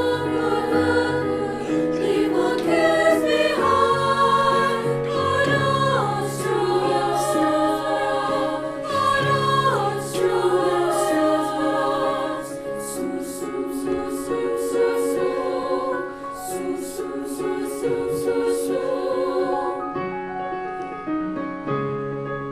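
A choir singing in harmony, with held notes, growing quieter over the last few seconds.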